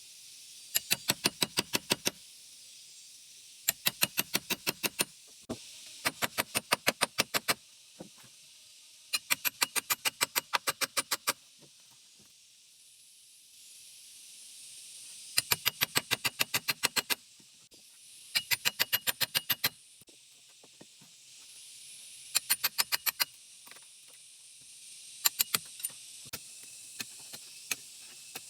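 Rapid sharp knocks in bursts of about eight to ten strikes, around seven a second, repeating every few seconds over a steady hiss.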